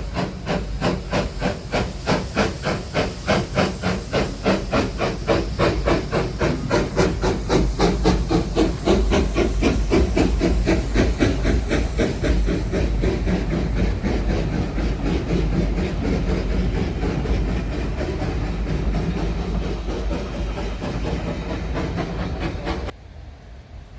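Steam locomotive pulling away, its exhaust beats quickening as it gathers speed, with steam hissing. The beats run together into a steady rush, and the sound cuts off suddenly near the end.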